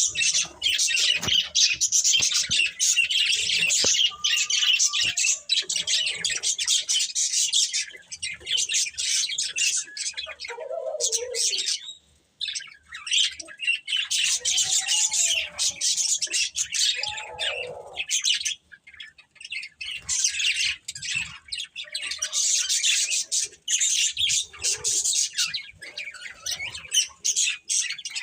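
A pair of budgerigars chirping and chattering rapidly and almost without stop, with a few lower warbling notes and a couple of brief pauses.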